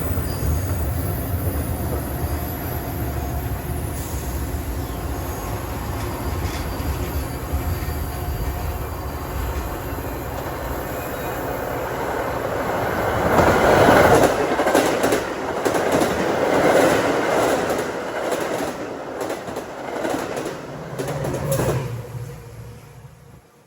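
A train passing through the station at speed without stopping: a steady low rumble, then a louder clatter of wheels over the rail joints from about halfway in, fading out at the very end.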